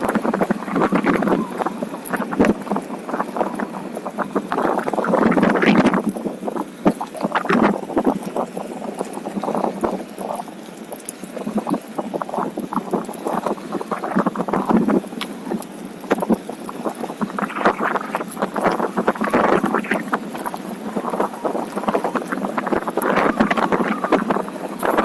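Wind buffeting the microphone of a rider moving along on a Onewheel, rising and falling in uneven gusts with a crackly edge.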